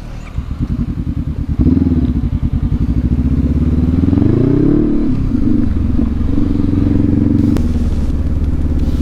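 Adventure motorcycle engine under way: it grows louder about a second and a half in, the revs rise and fall around the middle, then it runs steadily.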